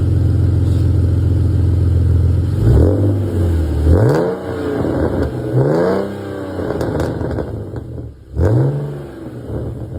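BMW E39 engine running through a Dinan exhaust taken from an E46: a steady idle, then four throttle blips about 3 s in, around 4 s, near 6 s and about 8.5 s in, each rising and falling in pitch, before it drops back toward idle.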